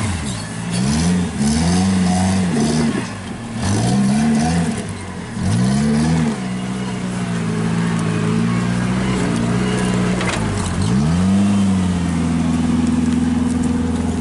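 A vehicle engine revving up and dropping back several times in quick succession, then running at a steady speed. About ten and a half seconds in it dips once, then rises again and holds at a higher speed.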